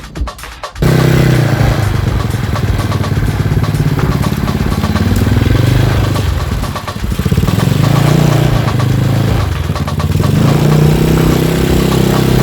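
Modified Yamaha Mio automatic scooter's single-cylinder four-stroke engine running loud, revving up and down, with a putt-putt note likened to a klotok boat engine. It cuts in abruptly about a second in.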